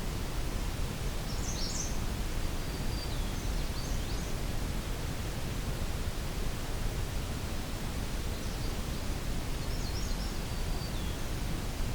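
Quiet evening outdoor soundscape: a steady low rumble and hiss, with faint, high songbird phrases about a second and a half in, again around three to four seconds, and once more near the end.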